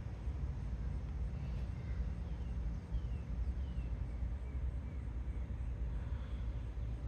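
A bird calling a run of short, falling chirps, about two a second, over a steady low rumble.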